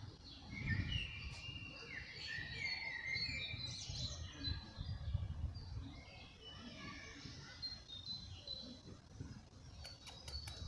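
Songbirds chirping and singing, many short chirps and trills overlapping, over a low rumble close by. A few quick clicks near the end.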